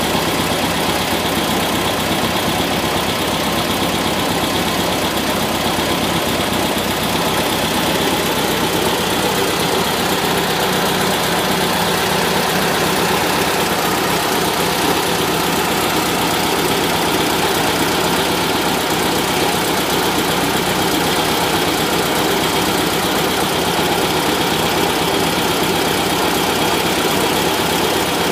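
Air-cooled Volkswagen Type 4 flat-four engine idling hot, with the knock it develops when hot.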